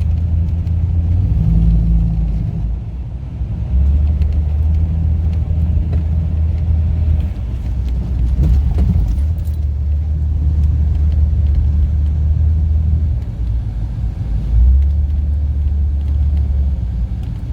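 Lifted 1998 Jeep Cherokee driving through snow: a steady low engine and road rumble that eases briefly a few seconds in and again near the end.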